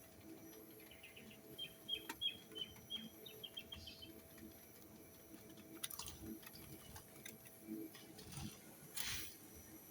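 Small birds chirping faintly: a quick run of short, high chirps between about one and a half and four seconds in, with a few sharp clicks and a brief rustle near the end.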